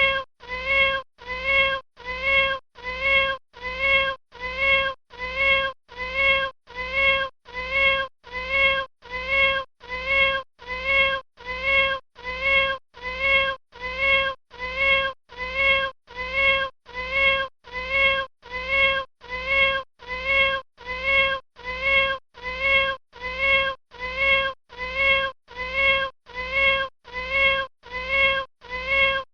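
Kitten meowing: the same short, high meow repeated over and over at an even pace, a little more than once a second.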